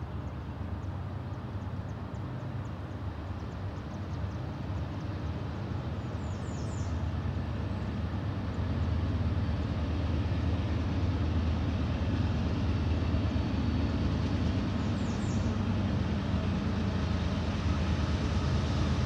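Diesel locomotives of an approaching freight train, a low engine rumble that grows slowly louder as the train draws nearer. A few short high chirps sound about six seconds in and again near the end.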